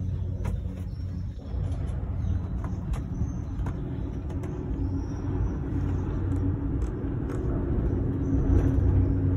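Skyrail gondola cabin running along its cable, heard from inside: a steady low rumble and hum with a few faint clicks.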